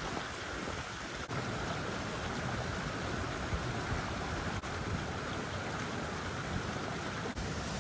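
Steady rushing noise with no clear pitch, dropping out very briefly three times.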